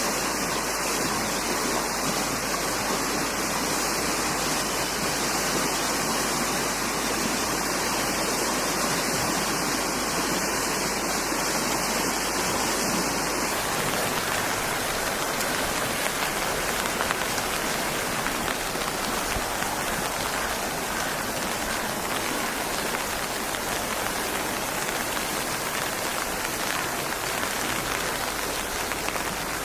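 Steady rain, a continuous dense hiss of falling water. About halfway through, the character of the hiss changes abruptly, as at a cut to a different stretch of rain.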